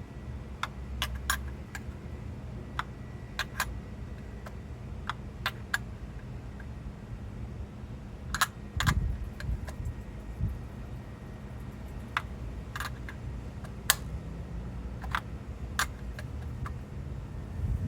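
Irregular light metallic clicks and taps of a wrench on the PCV valve fitting as the new valve is worked into place, with a brief low rumble about halfway through.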